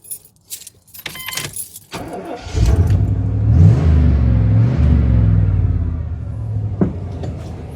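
Keys jangling at the ignition, then a V8 engine starts about two and a half seconds in, revs up briefly and settles to a steady idle, with a single click near the end. It is being restarted after its spark plug wires were pushed back onto the distributor cap to cure a misfire on some cylinders.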